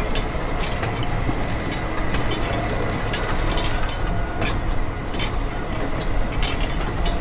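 A vehicle running with a steady low rumble and scattered rattling clicks, typical of a small tractor and trolley on the move.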